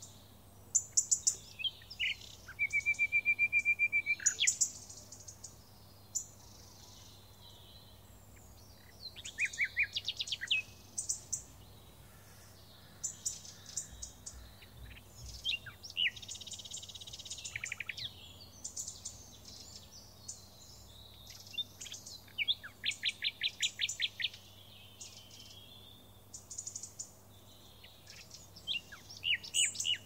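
Birds singing: several small birds giving high chirps, whistled notes and fast rattling trills that come and go throughout.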